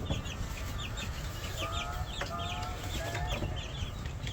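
Baby chicks peeping in a box: a rapid chorus of short, high cheeps, several a second, with a few longer, lower peeps in the middle, over a steady low rumble.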